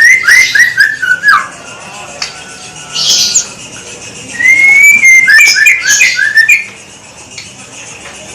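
White-rumped shama (murai batu) singing: two loud phrases of clear whistled notes ending in rapid runs of downward-slurred notes, with a short harsh note between them; the bird goes quiet near the end.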